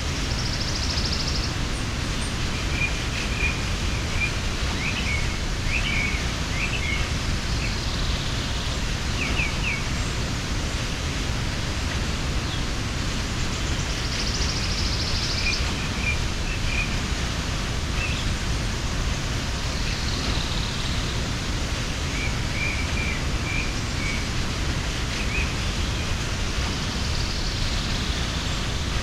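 Steady rushing of a mountain waterfall, with birds chirping now and then over it.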